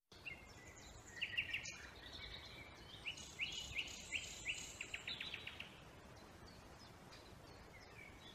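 Birds chirping: short high calls, with quick runs of rapid repeated notes in the first half, thinning to faint calls later, over a faint hiss.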